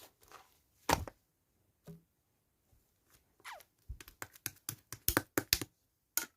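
Slime being handled close to the microphone, giving a scattered run of sharp clicks and taps that grow denser in the last couple of seconds.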